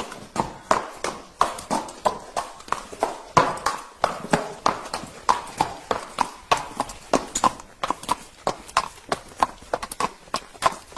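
Horse's hooves clip-clopping in a quick, even rhythm, about four hoofbeats a second.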